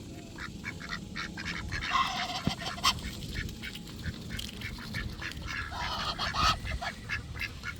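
Ducks calling close by while being hand-fed seeds, with many short sharp clicks scattered throughout.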